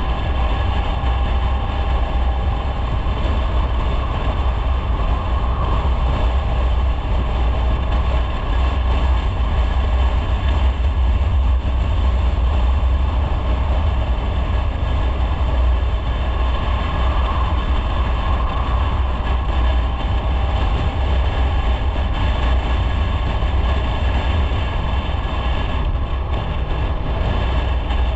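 Motorcycle under way at a steady speed: engine and road noise as a steady, unbroken rumble, with wind on the microphone.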